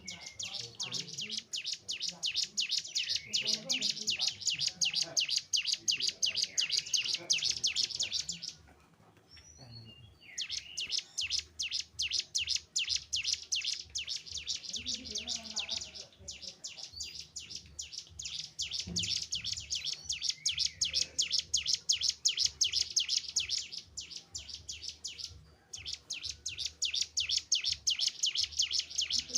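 Cigun (ciblek gunung, a prinia) singing long runs of rapid, evenly repeated high chirps, several a second, breaking off briefly about a third of the way in and again near the end.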